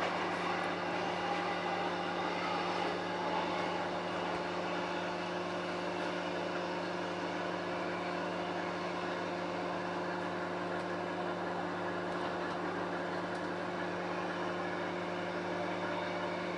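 Cabin sound of an electric suburban passenger train running at speed: a steady electric hum under the even rush and rumble of wheels on the track.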